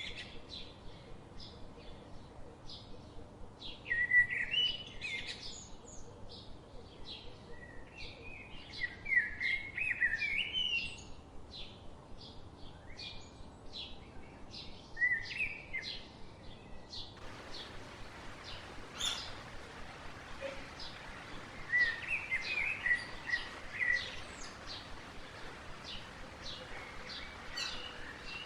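Songbirds chirping and singing: a steady scatter of short high chirps with several louder, warbling phrases spread through, over a faint background hiss that grows louder about two-thirds of the way through.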